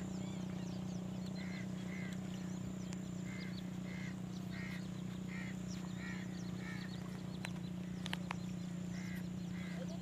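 Short bird calls repeating in twos and threes, about two a second, over a steady low hum that is the loudest sound. A couple of sharp clicks come about eight seconds in.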